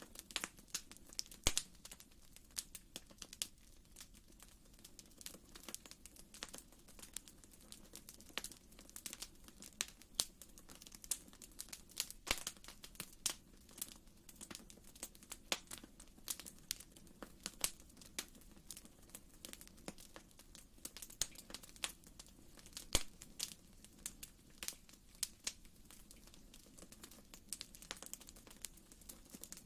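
Wood fire in a fireplace crackling, with frequent irregular sharp pops over a soft, steady low hiss.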